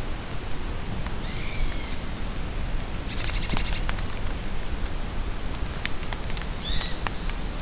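Steady rain falling in a forest, with drips ticking, while songbirds call over it: a thin high whistle, a warbled phrase, a rapid buzzy trill and a few short high notes.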